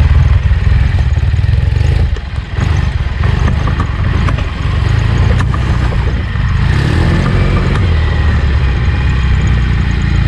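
Trials motorcycle engine running at low revs as the bike is ridden, easing off briefly about two seconds in, with a few sharp knocks along the way.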